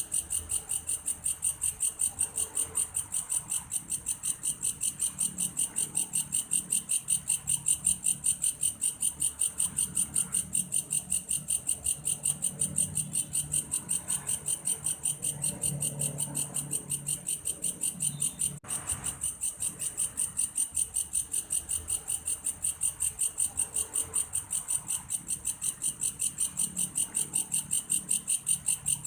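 Belalang kayu, a grasshopper, calling with a steady, high-pitched cricket-like chirring in rapid, evenly spaced pulses. The call breaks off for an instant about two-thirds of the way through.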